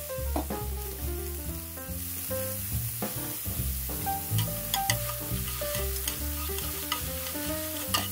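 Shredded cabbage sizzling in a hot pan as it is stir-fried and tossed with chopsticks, driving off its moisture, with a few light clicks. A cheerful background melody plays over it.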